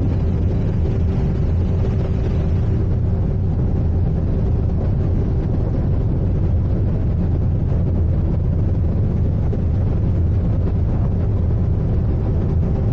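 Sightseeing icebreaker under way: a steady low rumble with a faint hum from the ship's engines and hull.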